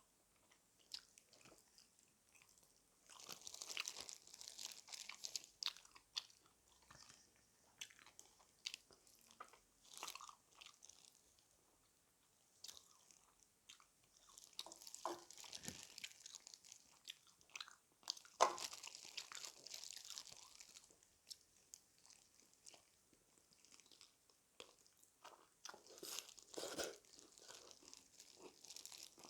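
Close-up crunching and chewing of crispy fried chicken, in several bouts of crackly bites with quiet chewing between them.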